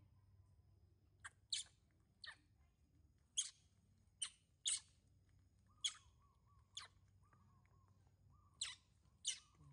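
A small bird chirping: about ten short, sharp, high chirps, spaced unevenly and often in quick pairs.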